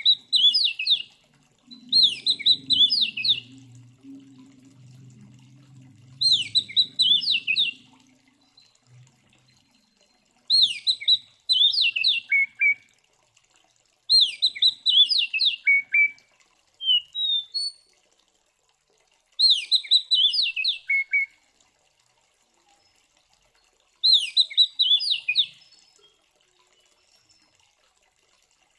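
Oriental magpie-robin (kacer) singing loud, aggressive 'fighting' song. It gives about seven short phrases of rapid, falling whistled notes, one every four to five seconds, some ending on lower notes.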